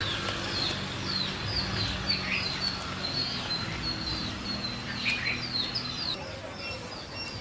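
Small birds chirping in quick, repeated downward-sliding notes, several a second, over a steady low hum.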